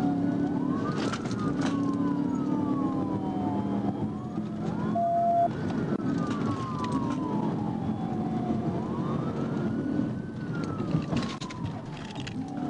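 Police car sirens wailing, two rising-and-falling tones out of step that repeat about every four seconds, over steady engine and road noise during a high-speed pursuit. A short beep sounds about five seconds in.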